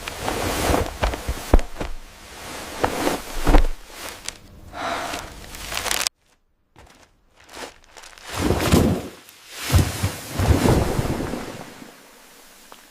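ASMR eating sounds: irregular crunchy bites and chewing. They stop for about a second and a half a little after the middle, then resume.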